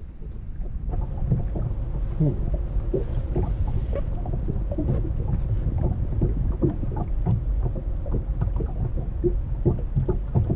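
Water slapping and gurgling against the hull of an anchored fishing boat, over a steady low rumble, starting about a second in.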